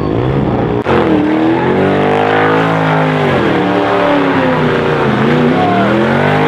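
Car engine revving hard under load while spinning its tyres at a car meet, the pitch swelling up and falling back several times, with a loud steady hiss of tyre noise that starts abruptly about a second in.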